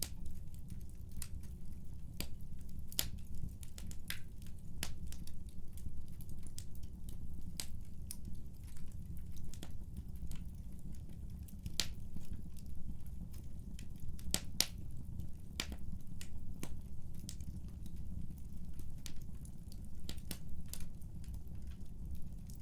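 Wood fire burning with a steady low rumble and irregular sharp crackles and pops, several of them a second.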